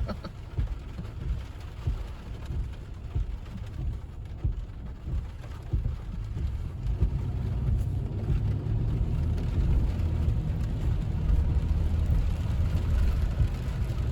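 Car cabin while driving in the rain: a low road and engine rumble with rain falling on the car, growing a little louder in the second half.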